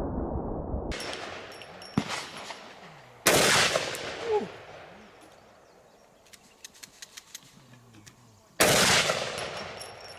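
Two heavy pistol shots from a Desert Eagle .50 AE, about five seconds apart, each with a long fading echo. A fainter, sharper crack comes about two seconds in.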